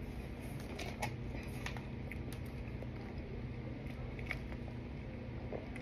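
Faint, scattered crunches and mouth clicks of someone chewing compacted cornstarch, a few separate crunches over a steady low hum.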